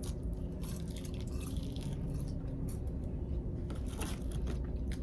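Close-up eating sounds: a person chewing fried chicken tenders, with scattered short crunches over a steady low hum.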